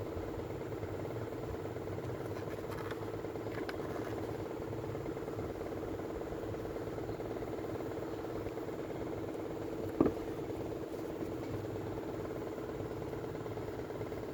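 A small engine or motor running steadily with an even hum, and a single sharp click about ten seconds in.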